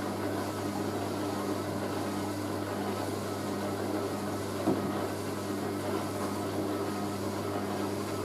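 Hoover A3060 washing machine running steadily on its final spin with a towel load, a constant low motor hum with one small knock about four and a half seconds in.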